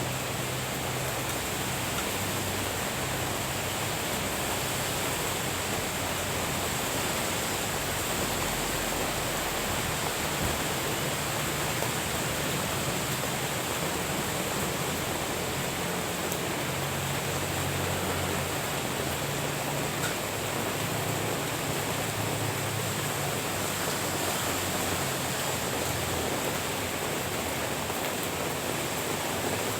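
Steady heavy rain, an even hiss that holds at one level throughout, with a faint low rumble now and then underneath.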